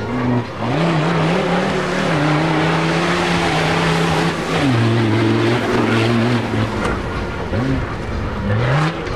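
Racing car engine at high revs, holding a steady pitch, then dropping sharply about halfway through before climbing again, with two quick rises in revs near the end.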